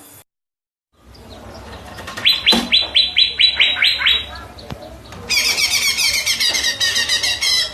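Green leafbird (cucak ijo) singing: a run of about eight quick falling notes, then a dense, rapid high chatter from about five seconds in.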